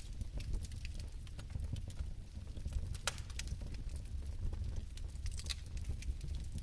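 Bio-fireplace flame burning with a steady low rumble and scattered sharp crackles and ticks, one louder crackle about three seconds in.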